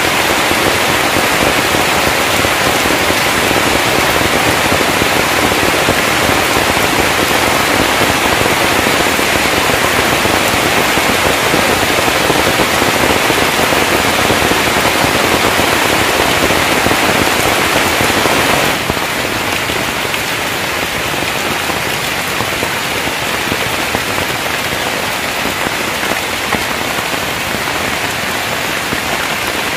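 Heavy rain falling steadily, a dense even hiss. About two-thirds of the way through it drops abruptly to a slightly quieter rain sound.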